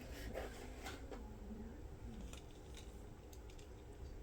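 Faint scattered clicks and rustles of plastic toy packaging being handled and opened to free diecast monster trucks.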